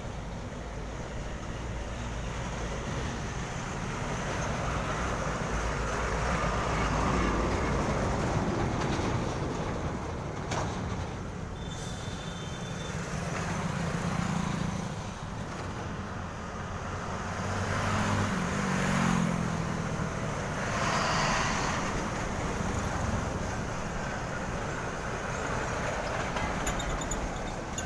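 Heavy trucks driving past on a road: a continuous rumble of diesel engines and tyres that swells several times as trucks go by.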